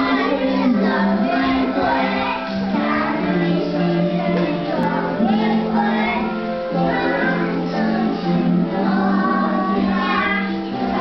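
Music with children singing over a sustained instrumental accompaniment.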